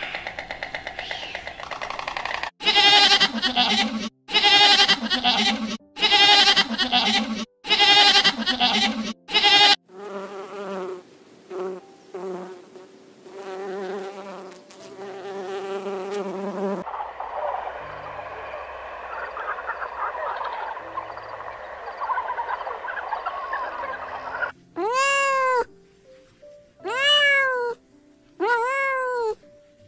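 Loud, evenly spaced calls from white storks at the nest for the first ten seconds. Then a bumblebee buzzing steadily for about fourteen seconds. Near the end, a domestic cat meows three times, each meow rising and then falling in pitch.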